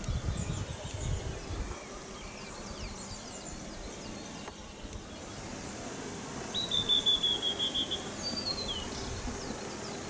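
Wild birds chirping, with short high calls scattered throughout. Around the middle, one bird gives a rapid trill of repeated notes lasting about a second and a half, the loudest sound. A low rumble in the first second or two.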